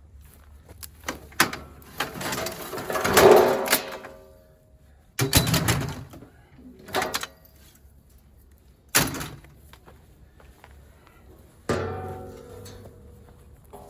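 Metal junk being shifted and dragged: a scraping stretch a couple of seconds in, then about five separate clanks and thuds, a few of them ringing briefly.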